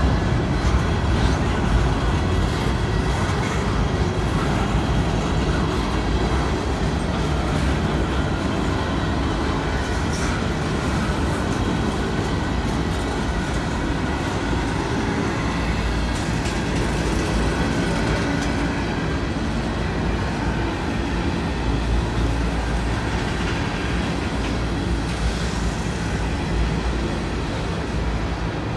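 Freight train of hopper cars rolling past at close range, a steady rumble of steel wheels on the rails.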